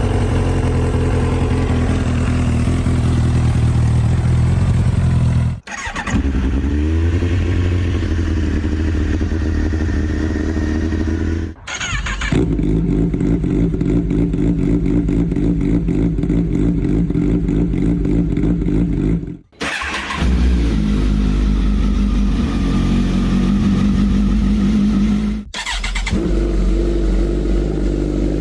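Kawasaki Ninja ZX sport bikes' inline-four engines running just after cold starts, heard as five back-to-back clips with abrupt cuts between them. The engines mostly hold a steady idle, with a short rise in revs about six seconds in.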